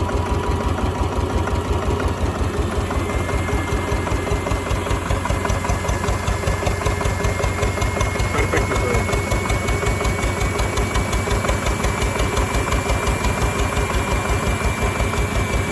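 Slavia 8 hp single-cylinder stationary diesel engine running steadily with an even, rapid beat. A faint steady high whistle runs through most of it.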